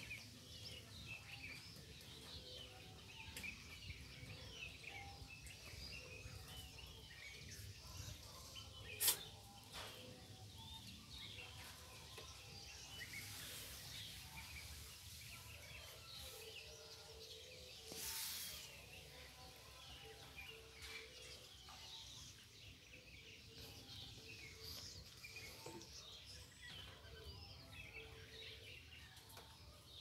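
Faint birds chirping steadily in the background, with a sharp click about nine seconds in and a short burst of noise about eighteen seconds in.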